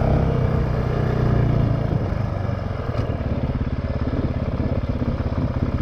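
Honda CRF450X's single-cylinder four-stroke engine running under throttle; about two seconds in the revs drop and it settles into a slower, evenly pulsing beat. There is a single sharp click about a second later.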